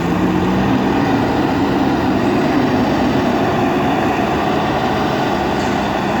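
JCB backhoe loader's diesel engine running steadily under load, a heavy, even engine drone.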